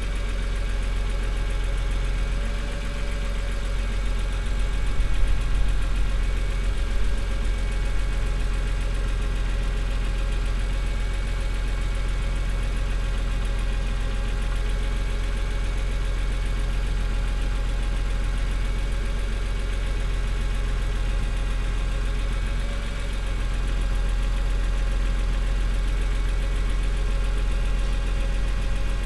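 Vehicle engine idling steadily while it warms up after a cold start from sitting overnight.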